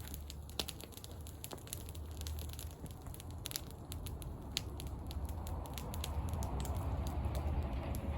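Wood campfire crackling, with irregular sharp pops over a low steady rumble; a soft hiss builds in the second half.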